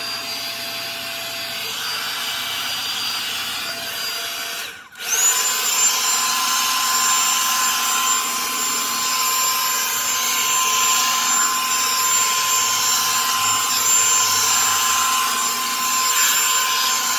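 Revlon One-Step Volumizer hair dryer brush running with a steady rush of air and a motor whine. About five seconds in it cuts out for a moment, then spins back up to a higher, louder whine, as if switched to a higher setting, and it stops abruptly at the very end.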